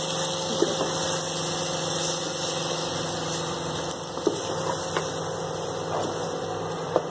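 Chopped tomatoes and onions sizzling in hot oil in a pot as a wooden spoon stirs them, with a few short knocks of the spoon against the pot, over a steady low hum.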